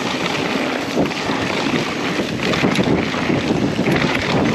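Wind buffeting an action camera's microphone, a loud, steady rumble and hiss with a few faint clicks.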